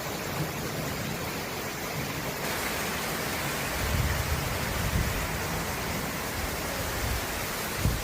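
Storm rain and wind, a steady rush of noise, with low gusts buffeting the microphone about halfway through and again near the end.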